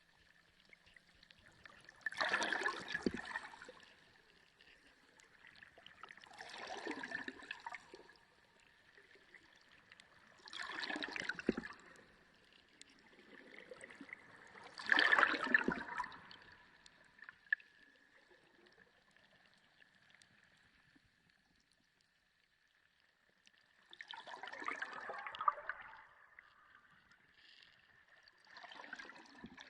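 Underwater sea recording: surges of water noise rise and fall about every four to five seconds, six in all with a longer lull midway, over a faint steady high tone.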